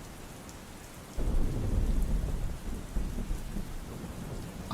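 Steady heavy rain, with a low rumble of thunder breaking in about a second in and rolling on, slowly fading over the next few seconds.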